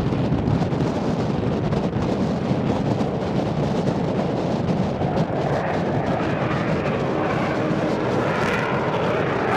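A fixed-wing aircraft in flight, making a continuous rumble. From about halfway through it grows stronger and takes on a sweeping, whooshing tone as the aircraft comes closer.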